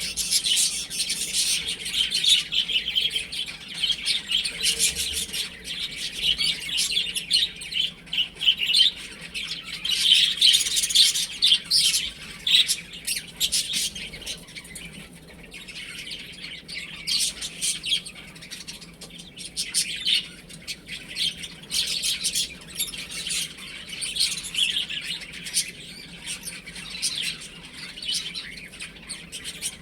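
Many chicks peeping at once, a dense, continuous high-pitched chirping that eases off a little around the middle.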